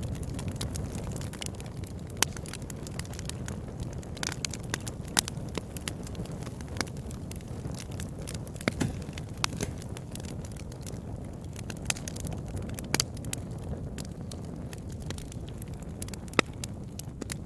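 Campfire burning, with a steady low rumble of flames and irregular sharp crackles and pops of burning wood.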